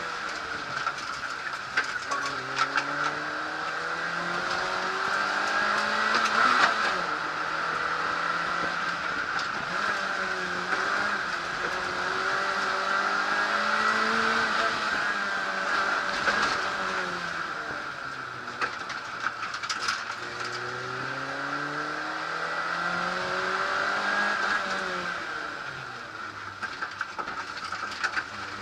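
Peugeot 106 rally car's engine driven hard, its revs climbing and then dropping again and again as it accelerates, shifts and lifts between sections. Scattered sharp clicks are heard over the engine.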